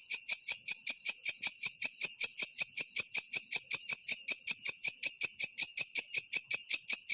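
Green katydid (belalang kecek) calling: a steady train of sharp, high-pitched ticking chirps at about five a second.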